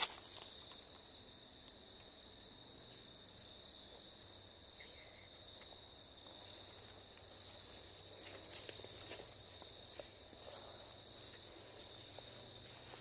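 Faint, steady high-pitched trill of insects, crickets, over quiet woodland, with a sharp click at the very start and scattered soft rustles and clicks of footsteps on leaves.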